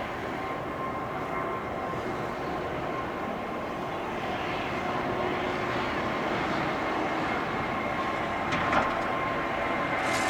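Jet airliner engines running, a steady rushing noise with a high whine that grows gradually louder. A brief click comes near the end.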